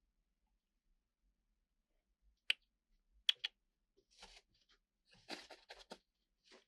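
A few sharp clicks, one about two and a half seconds in and a quick pair about a second later, followed by soft rustling and shuffling.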